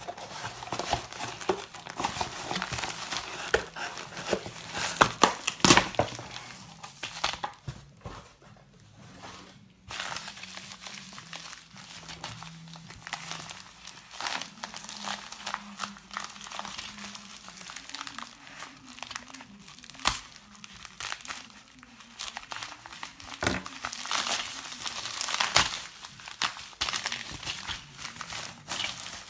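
Packaging being opened by hand: paper and plastic packing material crinkling and tearing, with scattered clicks and knocks, quieter for a moment about a third of the way in.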